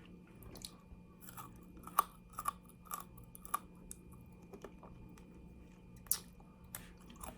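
Close-up mouth sounds of chewing and crunching fried chicken wing, bones included, with irregular sharp crunches between softer chewing. Two crunches, about 2 s and 6 s in, stand out as the loudest.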